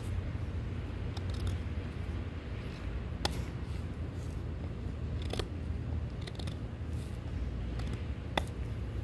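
A knife being handled, with a few sharp clicks, three of them louder, over a steady low rumble.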